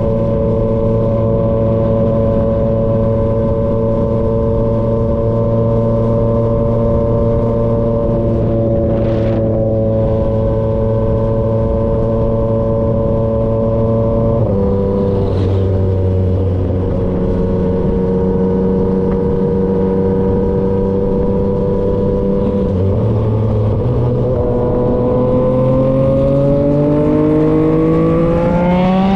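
Yamaha XSR900's three-cylinder engine running through an SC-Project CRT exhaust while riding at steady revs, with a small drop in pitch about halfway. Over the last few seconds the revs climb steadily as the bike accelerates.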